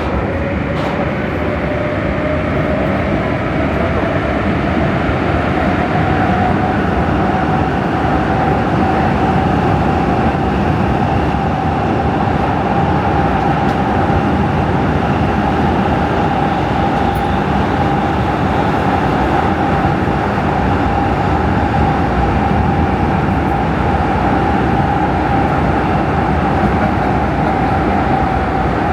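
Prague metro train running through the tunnel, heard from inside the car: loud wheel and tunnel rumble with a motor whine that rises in pitch over the first several seconds as the train gathers speed, then holds steady.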